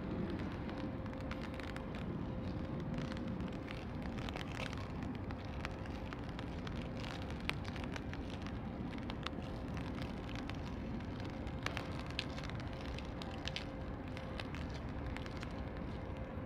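Steady rain falling on a city promenade. Scattered sharp drop ticks land close by, over a low city rumble and a faint steady tone.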